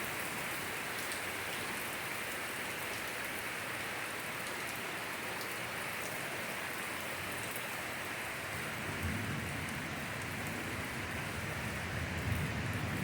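Torrential rain pouring steadily, with two low rumbles of distant thunder, about nine and about twelve seconds in.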